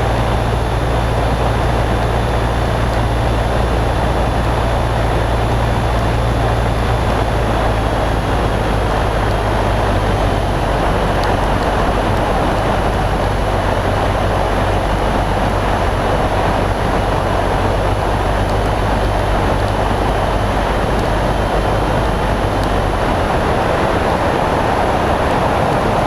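Cabin noise of a Cessna 152 in flight: the four-cylinder Lycoming O-235 engine's steady drone over a constant rush of air. About 23 seconds in, the lowest engine tones drop away, as when power changes.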